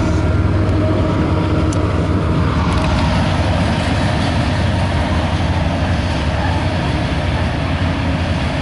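CSX freight train's diesel locomotives and loaded autorack cars rolling past with a loud, steady rumble. A faint engine tone fades after the first few seconds, leaving wheel and rail noise.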